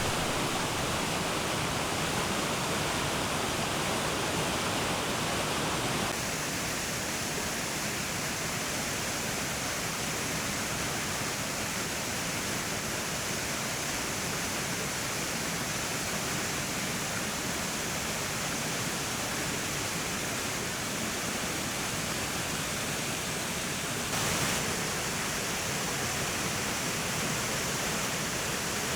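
Ramsey Falls, a 30-foot waterfall, pouring steadily: a constant rushing hiss of falling water, which shifts slightly in tone about six seconds in.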